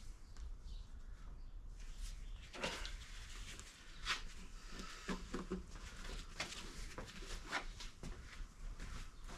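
A series of scattered knocks, clicks and clatters as tools and small parts are handled and set down, over a steady low hum.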